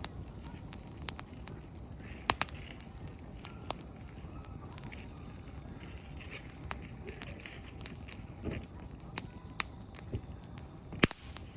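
Firewood crackling and popping in an open campfire: irregular sharp pops over a low steady background, with the loudest pops about two seconds in and near the end.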